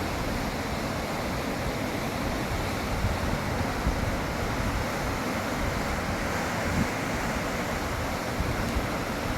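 Steady rush of floodwater in a swollen river.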